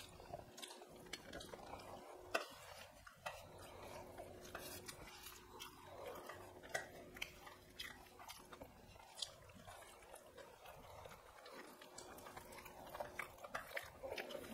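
Quiet eating sounds: chewing and wet mouth clicks as rice and curry are eaten by hand, with small scattered taps of fingers working food on steel plates, over a faint steady hum.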